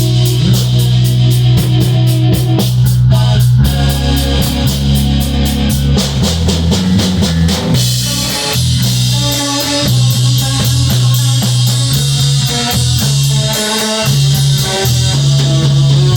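Rock band playing an instrumental passage without vocals: guitar, bass guitar and drum kit, with a steady bass line underneath. The drum pattern changes about eight seconds in.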